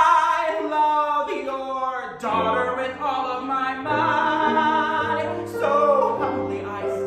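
Sung notes held with vibrato over instrumental accompaniment, part of a musical-theatre song near its close.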